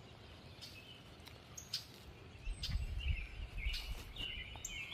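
Songbirds at feeders chirping and calling, with short high chirps throughout and a run of warbling notes in the second half. A low rumble on the microphone starts about halfway through.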